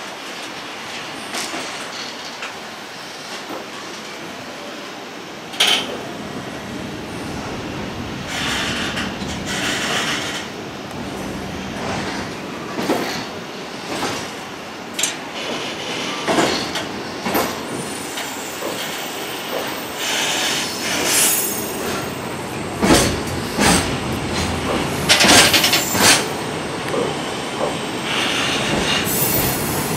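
Long container freight train passing close by: a continuous run of wagon noise with many irregular sharp clacks from the wheels on the track, growing a little louder in the second half.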